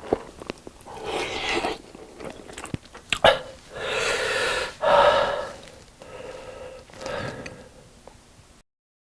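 A person eating close to the microphone: bites and chewing of fried chicken and black-bean noodles, with short clicks and several longer noisy bursts.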